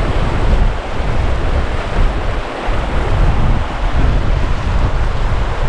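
Wind gusting across the microphone with a heavy, uneven rumble, over a steady rush of falling water from the waterfall.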